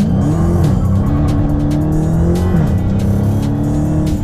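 Dodge Challenger Hellcat's 707 hp supercharged V8 accelerating hard. The engine pitch climbs, drops twice as the gearbox upshifts (about half a second in and again about two and a half seconds in), then climbs again.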